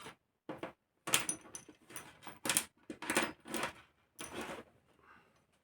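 Small metal engine parts and hand tools being handled: irregular clicks, clinks and rattles coming in quick clusters, trailing off near the end.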